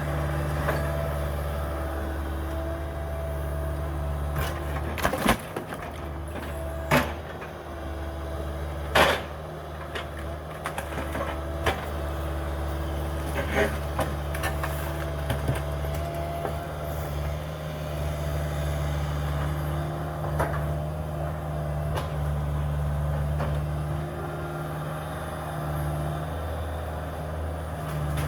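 Caterpillar 305 mini excavator's diesel engine running steadily, with a hydraulic whine rising and falling above it. Several sharp knocks and cracks from the demolition come in the first half, the loudest about nine seconds in.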